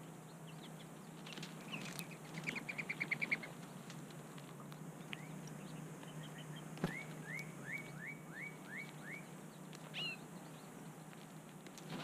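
Songbirds calling: a quick chatter of about ten short notes about two seconds in, then a series of six short rising notes a few seconds later, preceded by a sharp tap. A steady low hum runs underneath.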